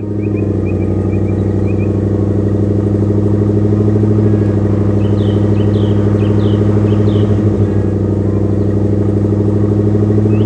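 A heavy vehicle's engine running steadily at one speed, with a slight pulsing throb. A few short bird chirps sound over it.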